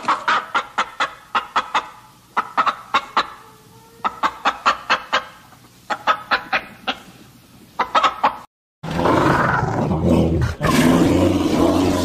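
Domestic hen clucking in quick runs of short, sharp clucks, about five a second, with short pauses between runs. About three seconds before the end the clucking cuts off and a louder, continuous rough rumbling sound takes over.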